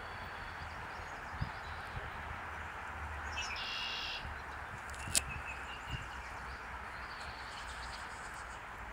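Steady outdoor background hiss with a low rumble, a bird calling once about three and a half seconds in, and a single sharp click a little after five seconds.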